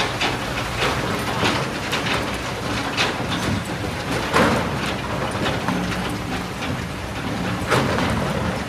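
Kobelco SK200 excavator's diesel engine running steadily under load, with irregular knocks and clattering of rocks and stones as the bucket works the rocky ground; a couple of louder knocks stand out midway and near the end.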